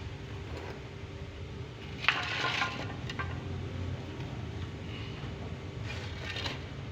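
Small hard objects clinking and clattering, in a sharp burst about two seconds in, a single click a second later and another clatter near the end, over a steady low hum.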